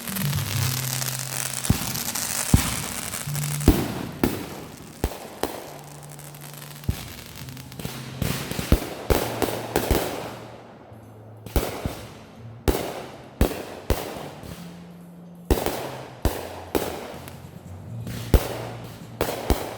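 Backyard consumer fireworks going off: a hissing stretch at first, then a long string of sharp bangs with short echoing tails, sometimes several a second, with a brief lull just past halfway. Music with a bass line plays underneath.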